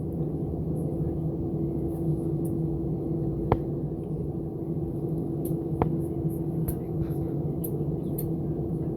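Cabin noise inside an Airbus A320 on the ground before takeoff: the engines and air system running as a steady low hum with two held tones. There are a couple of sharp clicks in the middle.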